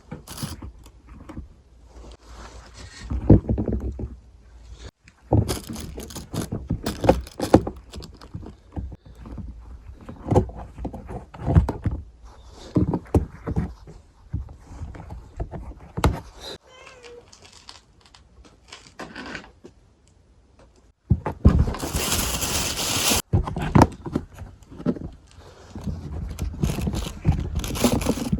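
Irregular thuds, knocks and scrapes of objects being handled, with a short burst of hissing noise lasting about two seconds near the end.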